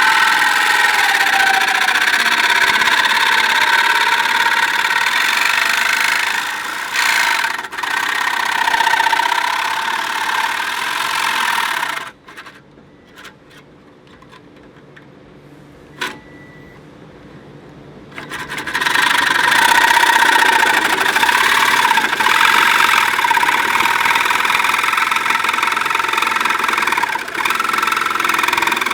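A power tool running under load, its whine wavering in pitch. It stops about twelve seconds in, with a single click in the pause, and starts again some six seconds later.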